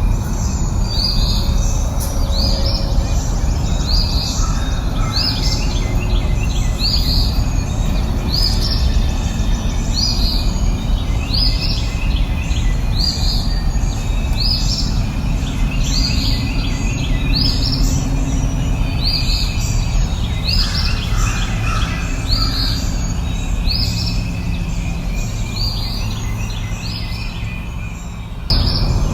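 Birds chirping, one short high note repeated about once a second, over a steady low rushing background noise. Shortly before the end the sound cuts off abruptly and resumes, as at a loop splice.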